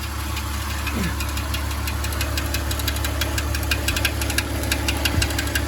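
BMW M54 straight-six idling, with a rapid chirping, ticking noise heard near the back of the engine by the transmission bell housing; the owner suspects it comes from there.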